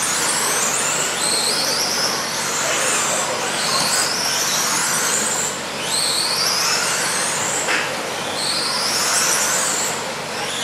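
Radio-controlled racing trucks' motors whining over a constant track noise, the whine climbing in pitch again and again, about once every one and a half to two seconds, as the trucks accelerate. A short click comes about three quarters of the way through.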